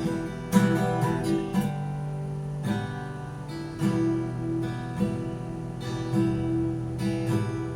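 Acoustic guitar playing an instrumental break in a song, strummed chords with picked notes over a bass line.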